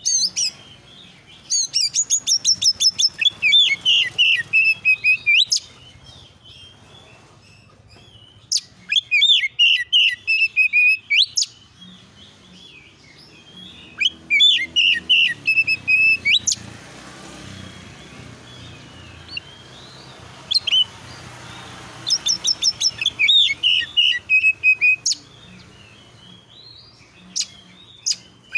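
Oriental magpie-robin (kacer) singing in the fast, frantic 'konslet' style: four bursts of rapid chattering notes separated by short pauses.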